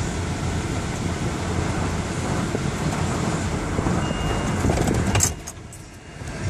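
Automatic car wash water jets and machinery, heard from inside the car as a steady rushing spray on the body. It cuts off abruptly about five seconds in with a few clicks, between wash stages.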